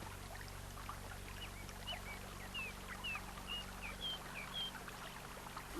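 Small birds chirping: a loose string of short, high chirps over a faint, steady background hiss.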